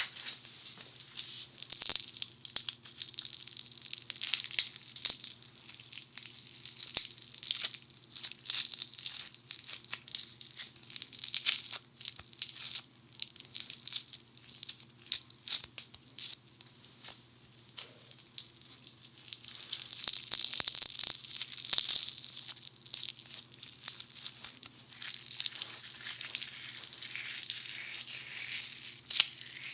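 Funny Foam bath foam squished and rubbed against a dummy head's ear microphones, giving a close, dense crackle of popping bubbles. It comes in uneven stretches, and the longest, loudest one falls about twenty seconds in. A faint steady hum lies underneath.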